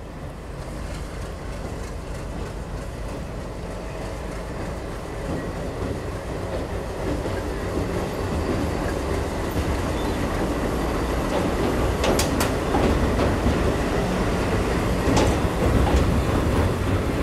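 Diesel-hauled passenger train crossing a steel girder railway bridge. It is a dense rumble of locomotive and wheels that grows steadily louder as the train comes close and passes, with a few sharp clicks in the last few seconds.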